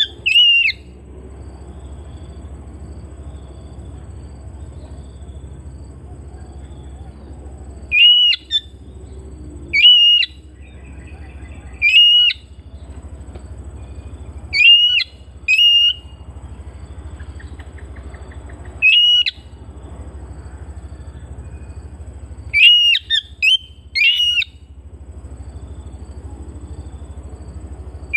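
Oriental magpie-robin (kacer) giving loud, short whistled notes, singly or in quick clusters of two or three, every few seconds. A steady low hum runs underneath.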